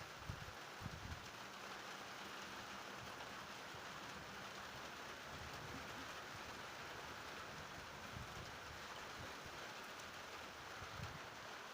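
Steady rain falling, with a few brief low thumps in the first second or so and one more near the end.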